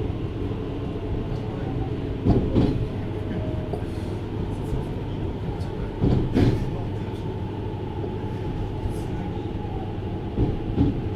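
Interior running sound of a JR Hokkaido 733 series electric multiple unit at speed: a steady rumble with a faint steady whine. About every four seconds the wheels pass over a rail joint, giving a quick double clack, three times in all.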